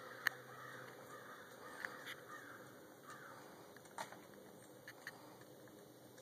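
Quiet outdoor ambience with faint bird calls, and a few sharp, scattered clicks, the loudest just after the start.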